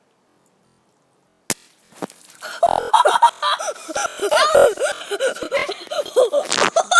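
Rubber balloon bursting with a single sharp pop about a second and a half in, after dead silence, followed by excited high-pitched shrieking and laughter.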